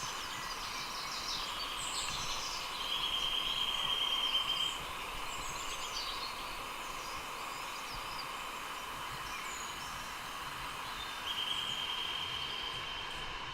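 Outdoor nature ambience: a steady hiss with birds chirping here and there. A steady high insect buzz comes in twice, about three seconds in and again near the end, each lasting about two seconds.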